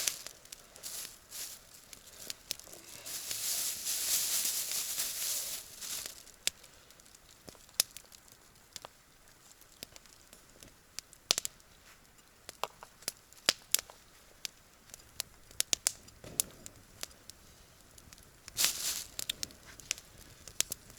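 Campfire crackling, with sharp irregular pops and snaps. A rustling, crinkling noise about three seconds in lasts about three seconds, and a shorter one comes near the end.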